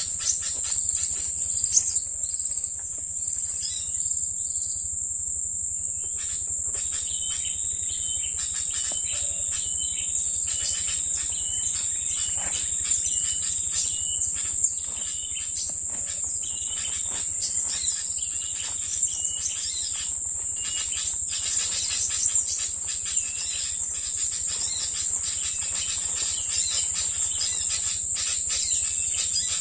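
Steady high-pitched insect drone, with a bird's short high call repeated about once a second through the middle of the stretch, over scattered clicks and rustles.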